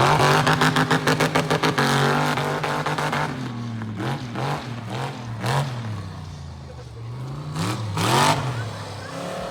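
Monster truck engine revving hard, with a rapid pulsing in the first two seconds, then running lower with pitch swings, and revving up again near the end.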